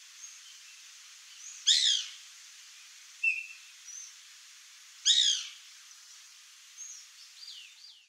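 Bird calls: two loud, harsh, downward-sliding calls about three and a half seconds apart, with fainter short whistles and chirps of birds between them.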